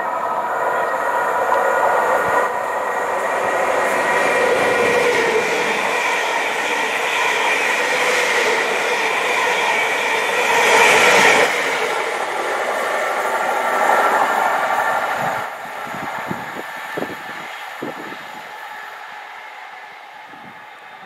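Greater Anglia electric multiple unit passing along the platform: a steady rush of wheels on rail with a steady electric motor whine, loudest about eleven seconds in. It falls away suddenly near the end, leaving a quieter train with a few sharp clicks.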